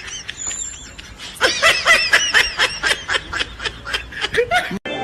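Laughter: a run of quick, high-pitched ha-ha pulses starting about a second and a half in, cut off abruptly near the end.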